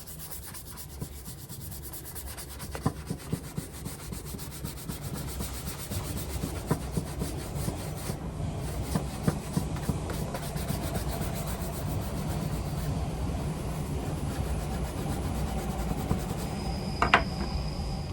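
A leather shoe being rubbed and scrubbed in quick, continuous strokes during cleaning. Near the end there is a single sharp clink that rings briefly.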